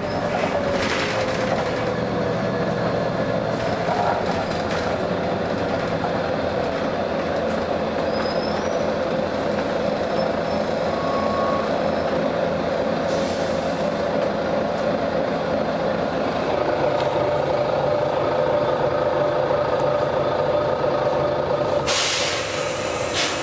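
Volvo B9TL double-decker bus running with a steady drivetrain whine, its compressed-air system letting out hisses: a short one about halfway through and a louder, longer one near the end.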